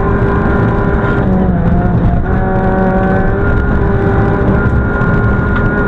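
Toyota Corolla FX GTi rally car's twin-cam four-cylinder engine running hard at high revs, heard from inside the cabin. The steady engine note breaks off briefly about two seconds in, then holds again.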